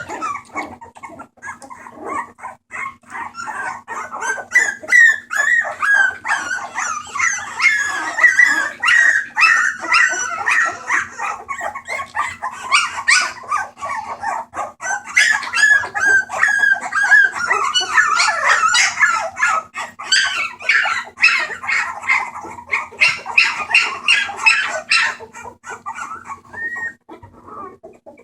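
A litter of bulldog puppies crying out in many overlapping short, high calls, thinning out near the end.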